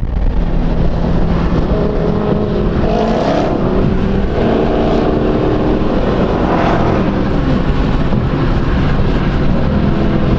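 Car engine and exhaust running under way, its pitch rising and falling as it revs.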